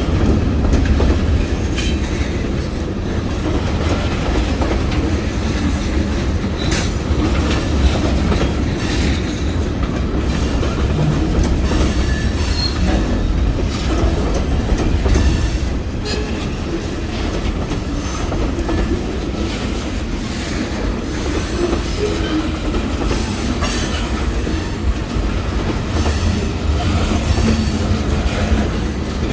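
Freight train rolling past close by: a steady low rumble with steel wheels clicking over rail joints and brief wheel squeal.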